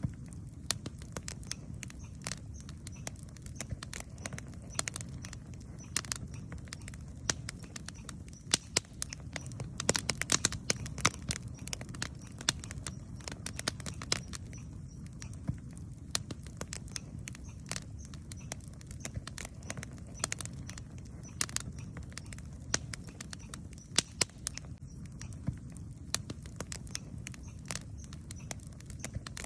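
Wood campfire crackling, with frequent irregular sharp snaps and pops, a few much louder than the rest, over a low steady rumble.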